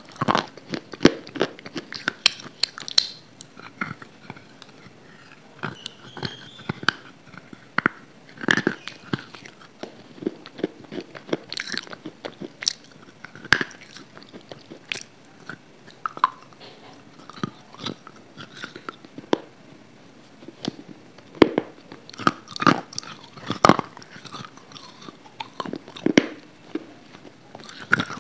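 Close-miked biting and chewing of a hard grey chunk: crisp crunches in irregular clusters with short pauses between bites.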